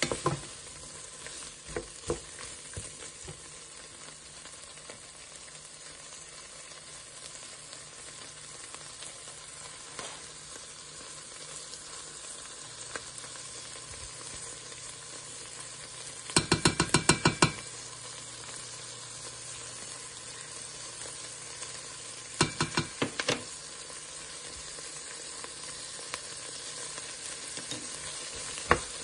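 Shrimp and vegetables sizzling in a stainless steel pot while a wooden spoon stirs them. Twice a quick run of sharp taps against the pot rises above the sizzle: about ten in a second midway through, and a shorter run a few seconds later.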